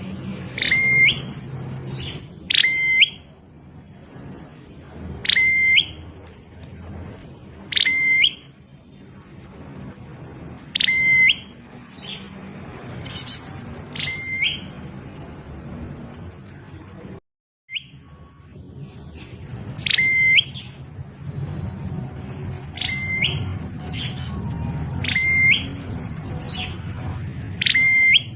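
Prenjak klawu calling: a sharp upward note followed by a short flat whistle that bends up at its end, repeated about every two and a half to three seconds, with faint high chips between the calls. The sound cuts out completely for a moment past the middle.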